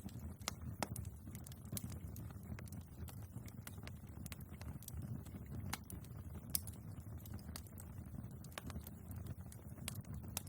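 Wood fire burning in a fireplace: irregular sharp crackles and pops of the logs over a low, steady rumble of the flames.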